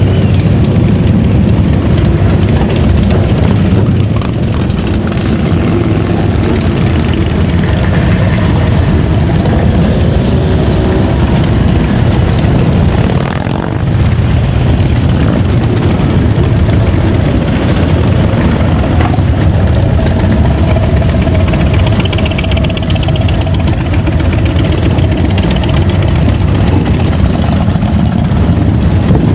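Vehicle engines running close by, a loud, steady low rumble with slight dips in level.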